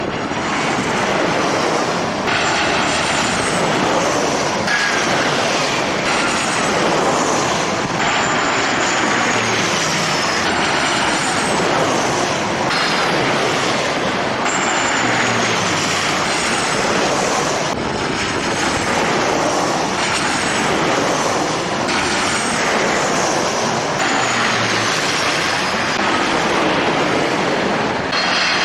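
Jet airliner engines running: a loud, steady rushing noise with high whining tones that repeatedly slide down in pitch.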